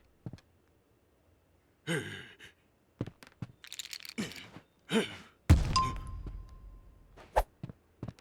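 Cartoon sound effects: short falling grunts or sighs from animated characters and some scraping, then a heavy thud about five and a half seconds in with a low rumble dying away, followed by a thin ringing tone and a sharp click.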